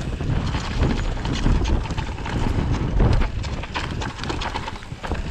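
Mountain bike riding down a rough dirt-and-rock trail: the tyres run on the ground and the bike knocks and rattles over bumps, with wind rumbling on the microphone.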